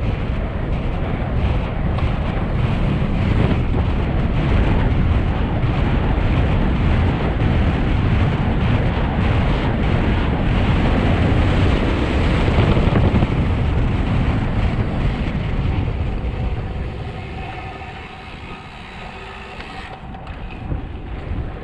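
Wind rushing over the camera microphone of a road bike descending a mountain pass at speed. The rush eases for a few seconds near the end, then builds again.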